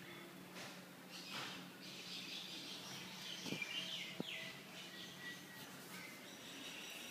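Faint bird chirps and short whistling calls in the background, over a steady low hum, with a couple of light taps about halfway through.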